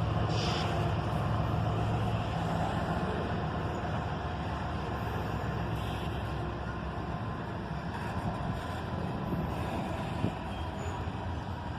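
GE diesel-electric freight locomotives, an ET44AH and an ES44ACH, pulling a freight train away slowly after a stop: a steady low engine drone, strongest in the first couple of seconds and then easing, over running noise, with a few light clicks later on.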